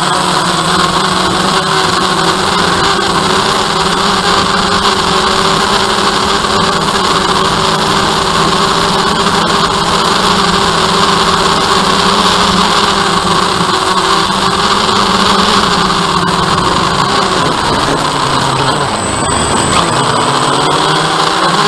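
DJI Phantom quadcopter's motors and propellers humming steadily. Near the end the pitch dips and then climbs again as the throttle changes.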